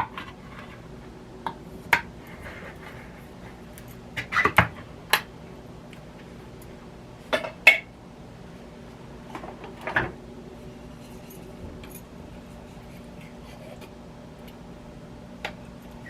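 Kitchen utensils clinking and knocking against a pot and can, a handful of separate strikes in small clusters, over a steady low hum.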